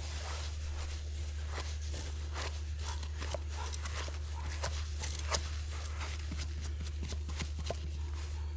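Scattered small crunches, scrapes and tearing sounds of forest-floor soil, moss and roots being worked and pulled away by hand, over a steady low hum.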